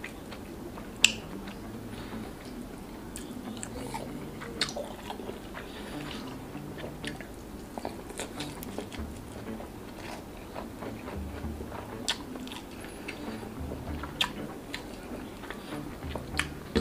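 A person chewing mouthfuls of rice with sardines and omelette, eaten by hand, close to the microphone, with short clicks throughout; a sharp click about a second in is the loudest.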